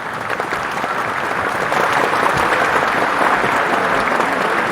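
A crowd applauding: a dense patter of many hands clapping that grows louder over the first couple of seconds and then holds steady.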